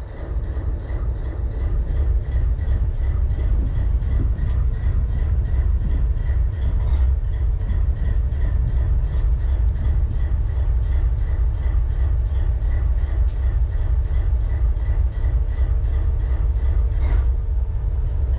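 Diesel locomotive engine idling with a steady low rumble and an even pulsing beat about three times a second; the owner of the recording takes its running for a misfire. A short sharp sound cuts in near the end.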